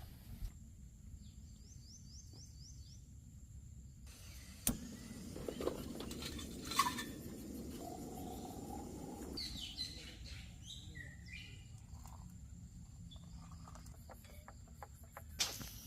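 Quiet outdoor ambience with birds calling: a quick run of about six short high chirps about a second in, more chirping calls past the middle, and a single sharp click about five seconds in.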